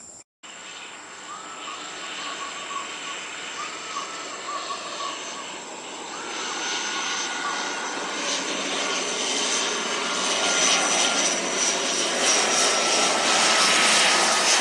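Jet airliner's engines approaching: a broad rush with a thin high whine that slowly drops in pitch, growing steadily louder.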